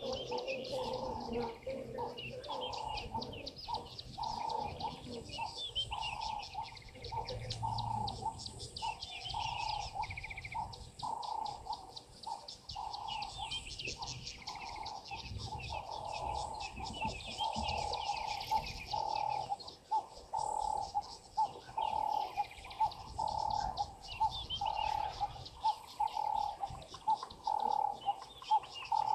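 Wild birds calling: many high chirps and twitters from several birds, over one short lower note repeated steadily again and again.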